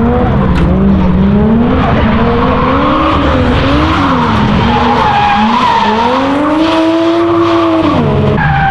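Drift car on track: the engine revs up and down in waves through the slide while the tyres skid and squeal. Near the end the revs fall away sharply and the engine settles to a lower, steady note.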